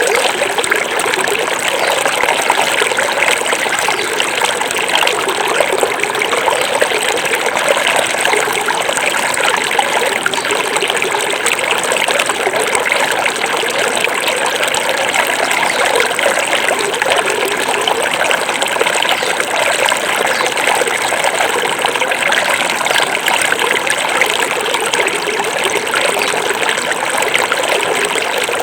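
Small forest river flowing and babbling over stones, a steady rushing and trickling.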